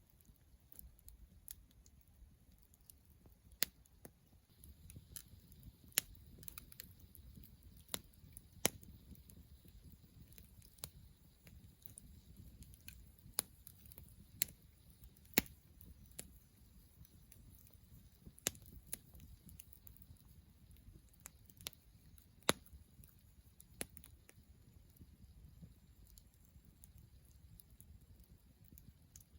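Wood campfire crackling: sharp, irregular pops and snaps from burning firewood, a few much louder than the rest, over a faint low rumble.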